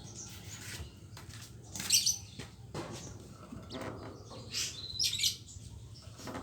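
Yellow-fronted canary (Mozambique) singing in short bursts of high chirps and rolling trills, loudest about two seconds in and again around five seconds.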